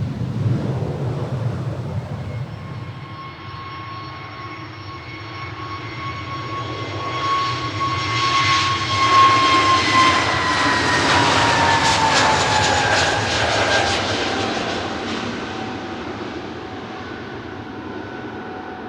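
Airbus A320neo jet taking off at full thrust and passing by, its CFM LEAP-1A engines making a steady high whine that swells and then drops in pitch as the aircraft goes past, before fading. A low rumble is heard briefly at the start.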